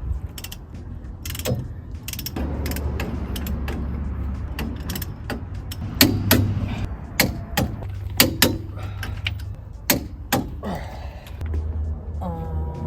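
Hand ratchet clicking and metal tools clinking as bolts are run down in a crisscross pattern on a truck's front suspension, with a few sharp metallic knocks about six, seven, eight and ten seconds in.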